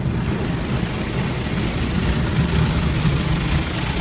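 Automatic car wash working over the car, heard from inside the cabin: a loud, steady rushing roar with a deep rumble beneath it.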